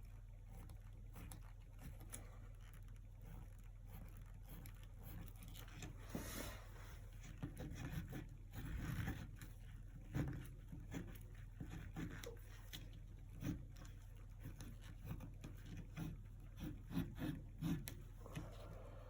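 Acrylic painting at work: a paintbrush swishing, dabbing and scratching on the painting surface, with a few sharper taps and knocks. A steady low electrical hum runs underneath.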